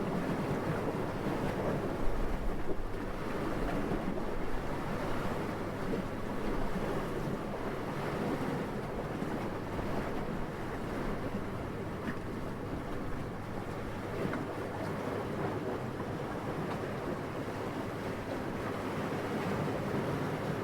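Steady wind blowing, an even rushing noise that swells and eases, with a stronger gust buffeting low about two seconds in.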